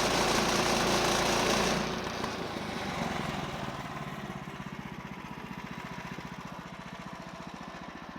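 The HM130 sawmill's 14 HP Kohler engine runs at full throttle, then the throttle is released about two seconds in and it drops to a steady, quieter idle with an even pulse. At idle the centrifugal clutch lets go of the band blade, which marks the end of a cut.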